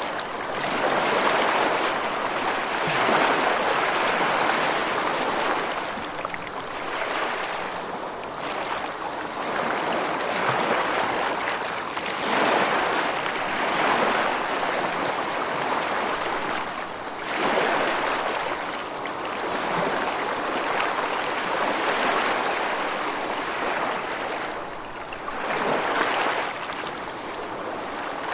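Rushing water, a steady wash that swells and eases every few seconds.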